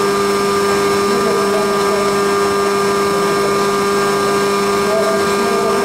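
Haas CNC milling machine running steadily while machining a cam on its fourth axis: a constant two-note mechanical hum over an even machining noise.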